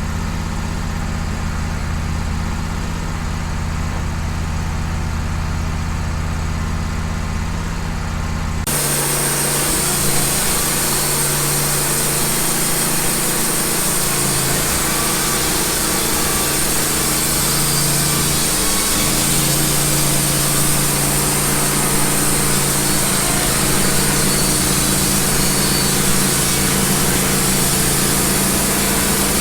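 Wood-Mizer LT15 band sawmill's engine idling, then about nine seconds in it speeds up and the band blade runs through the cedar log, a steady hissing saw noise over the engine.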